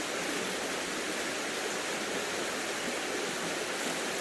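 Steady rushing of a flowing creek, an even wash of water noise with no breaks.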